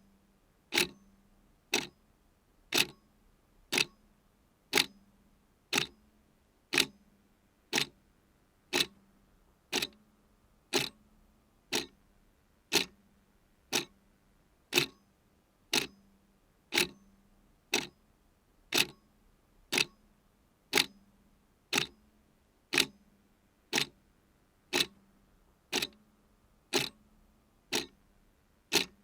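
Clock ticking steadily, about one sharp tick a second, with alternate ticks slightly different in tone, like a tick-tock.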